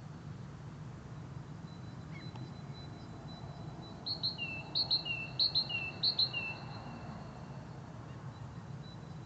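A bird singing: a run of about four quick repeated phrases of paired high notes, each note dropping in pitch, loudest around the middle. A faint steady high tone runs underneath, over a low background hum.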